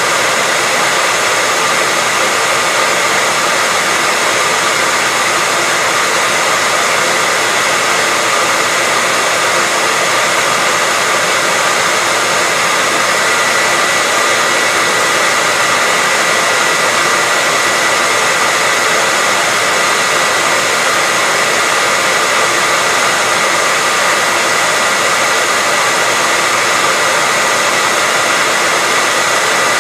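Hair dryer running continuously: a steady rush of blown air with a thin, constant high whine, not changing at all.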